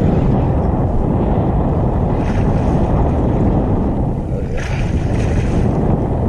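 Wind buffeting the microphone over a steady rush of water. Brief hissier surges come about two and a half seconds in and again around five seconds.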